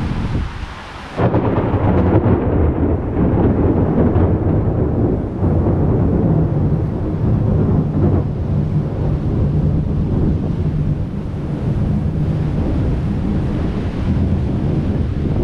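Thunder from a lightning strike: a sudden loud crack about a second in, then a long low rumble that carries on and eases slightly near the end.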